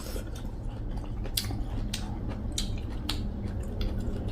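Eating sounds: chewing, with several short, sharp wet clicks and smacks spread through, over a low steady hum.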